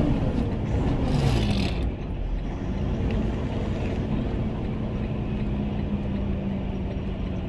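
Semi-truck tractor's diesel engine heard from inside the cab while driving. Its revs fall over the first two seconds, then it runs at a steady pitch under a low rumble.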